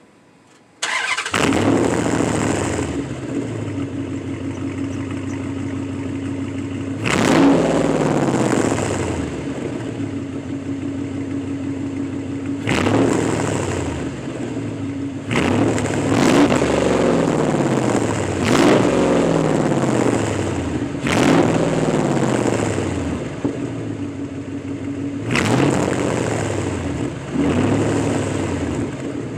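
5.7-litre HEMI V8 cold-started with a mid-muffler delete: it fires about a second in and settles into a fast idle. It is then revved about eight times, each rev falling back to idle.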